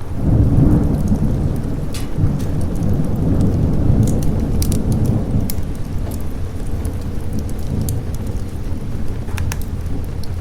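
A roll of thunder that swells about half a second in and rumbles on for several seconds, over steady rain. Scattered sharp ticks sound above it throughout.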